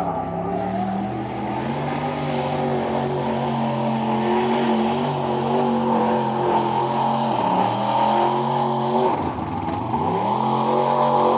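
Square-body mud truck's engine running hard under load, revs holding steady, dipping briefly about halfway through, then dropping sharply and climbing back up about nine seconds in.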